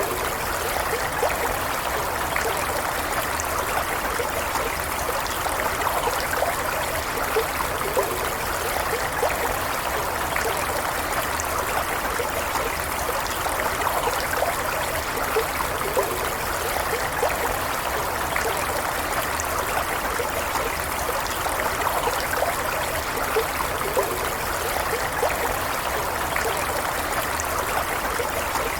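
A stream flowing steadily, with an even rush of water and small bubbling splashes throughout.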